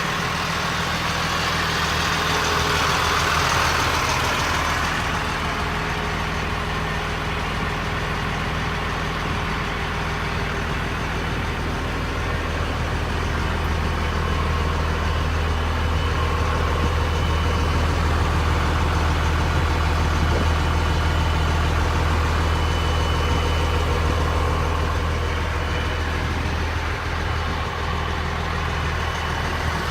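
Catering truck's engine running steadily at idle, a continuous low hum, with a higher hiss that is stronger for the first few seconds.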